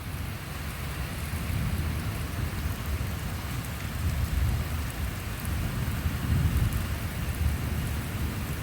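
Steady rain with a low rolling rumble of thunder that swells and fades through the middle.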